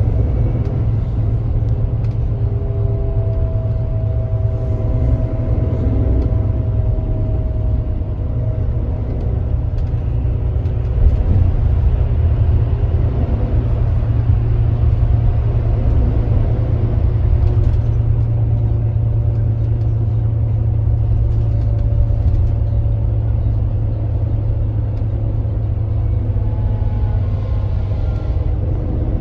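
Kia Granbird Sunshine coach's engine running steadily at cruising speed: a deep, even drone with road noise and faint slowly shifting whine lines above it.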